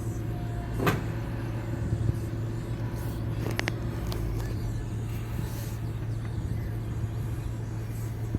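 A vehicle engine running steadily with a low hum, with a couple of sharp knocks, one about a second in and another a little past three and a half seconds.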